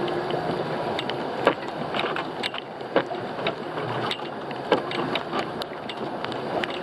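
Small fishing boat's engine running steadily, with irregular sharp clicks and knocks over it.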